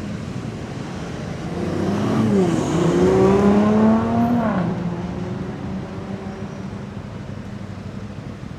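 A motor vehicle driving past on a city street: its engine note dips once, climbs as it accelerates, then falls away about five seconds in. Steady traffic noise continues underneath.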